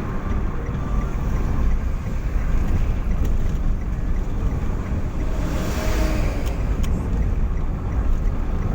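Steady low rumble of a vehicle on the move, engine and road noise with wind buffeting the microphone. Something swells briefly about six seconds in, as if another vehicle passes.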